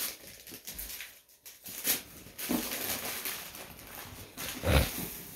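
Paper rustling and crinkling, with scattered clicks and a thump near the end, typical of a gift being unwrapped.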